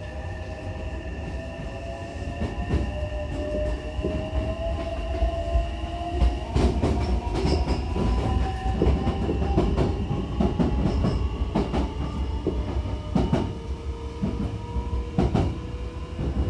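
Hankyu Kobe Line electric train accelerating, heard from inside the car: the traction motors' whine rises steadily in pitch over a low running rumble. From about six seconds in, the wheels click sharply over rail joints and points.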